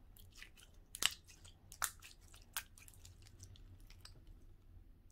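Gooey Nickelodeon slime being squished and worked by hand, giving irregular wet clicks and pops from trapped air, with three louder pops a little under a second apart in the first half.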